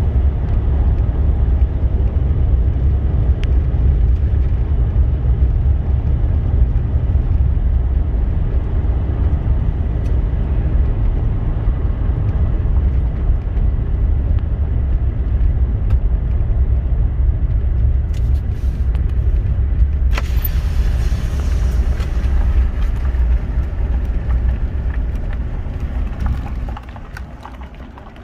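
A vehicle driving: a steady low engine and road rumble, with more high-pitched noise joining about two-thirds of the way through, then easing off near the end as it slows.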